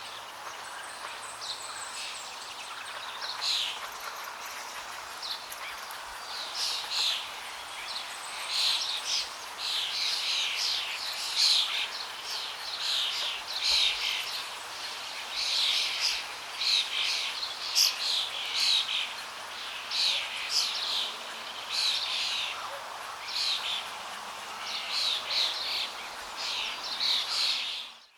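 Songbirds chirping rapidly and repeatedly, over the steady rush of flowing water. The sound dips out abruptly at the very end.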